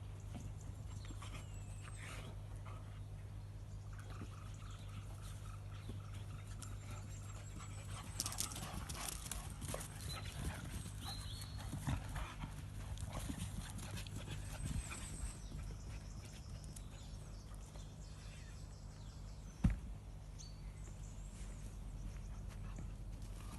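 Dogs moving about with small high whines and clicking sounds over a steady low hum. A single sharp knock comes near the end and is the loudest sound.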